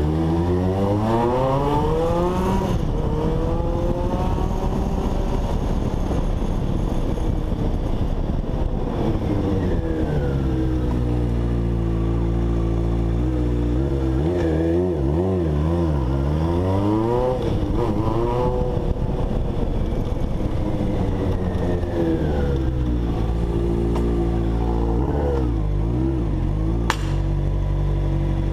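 Honda CBX 750 motorcycle's inline-four engine being revved out: the pitch climbs steeply in the first couple of seconds, then the engine runs on, with the revs dipping and rising again in the middle and near the end.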